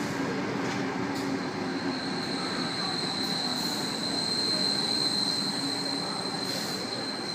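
Sydney Trains Tangara electric train rolling into the platform. It gives a steady rumble, and a thin, steady, high-pitched squeal from the wheels or brakes sets in about two seconds in, loudest about two-thirds of the way through.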